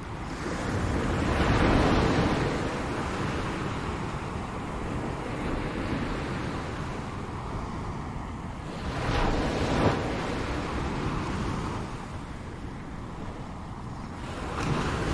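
Ocean waves breaking on a shore, a steady rush of surf that swells with a wave about two seconds in, another about nine to ten seconds in, and a third near the end.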